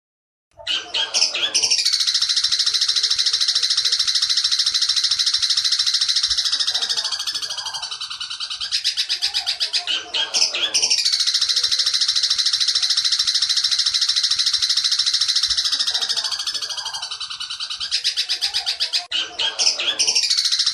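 Long-tailed shrike (cendet) singing its 'petir' song: dense, very rapid buzzy trills in long phrases of about eight seconds. The song starts after silence about half a second in and breaks off briefly twice.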